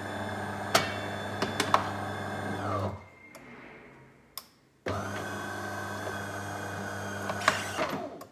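De'Longhi Dinamica espresso machine's water pump humming steadily in two runs, the first stopping about three seconds in and the second starting again about two seconds later, with a few sharp clicks. This is the machine's rinse cycle as it is being switched off.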